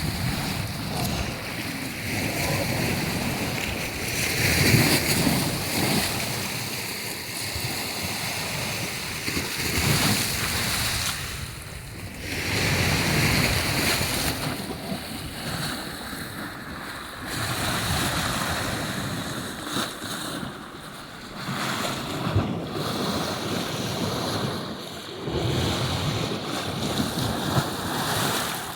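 Black Sea surf breaking on the shore, a noisy wash that swells and falls every few seconds, with wind buffeting the microphone.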